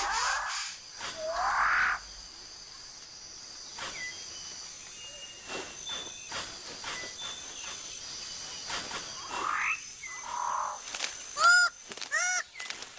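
Rainforest animal calls: two rising squawks at the start, scattered clicks and faint steady high tones in the middle, then near the end a run of loud calls that rise and fall in pitch, about two a second.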